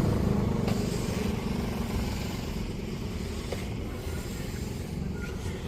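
Motor vehicle engine running, its steady note dying away in the first second and leaving a fainter rumble of traffic and road noise that slowly fades.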